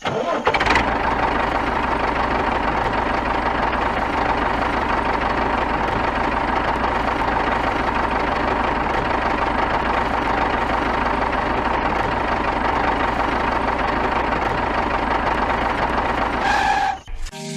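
A small motor running steadily with a faint whine, starting suddenly and cutting off near the end.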